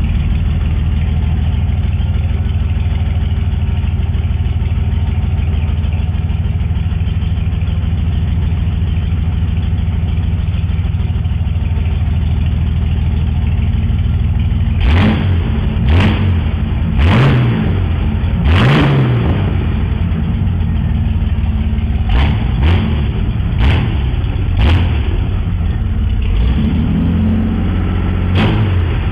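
Chevrolet 262 cu in (4.3 L) V6 on its first run after being fitted, idling steadily, then from about halfway on blipped with the throttle in about nine short revs, some in quick pairs.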